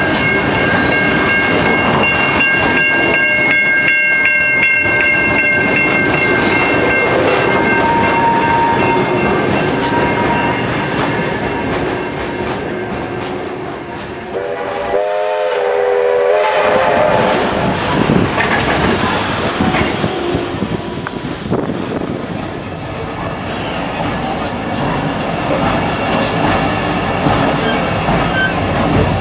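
Train hauled by steam locomotive 3237 running along, heard from onboard: the carriage wheels clicking over rail joints. In the first few seconds a level crossing's warning bells ring steadily as the train passes it. About halfway there is a brief break in the running sound.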